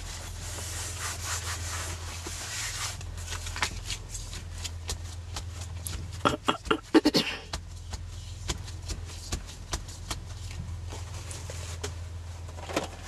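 Purple spray ink hissing onto a craft tag for the first few seconds, then rubbing, scratching and small clicks of hands handling the tag and materials, over a steady low hum.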